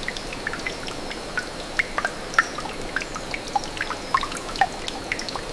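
Water dripping: many irregular single drops plinking over a steady soft hiss.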